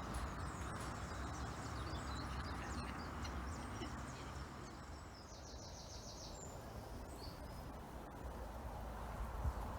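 Birds chirping over a steady low outdoor rumble, with a rapid high trill a little after five seconds in.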